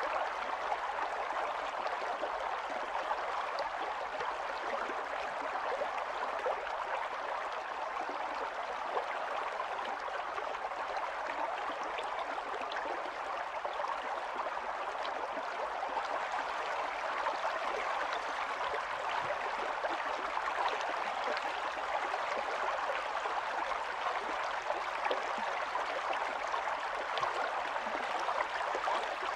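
Stream water running and babbling steadily over stones, a continuous splashing hiss with many small gurgles and drips.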